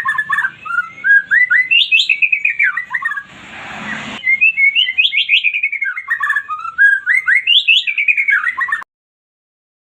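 White-rumped shama singing a fast run of stuttering notes that sweep up and down in pitch, broken about three seconds in by roughly a second of hissing noise. The song stops abruptly about a second before the end.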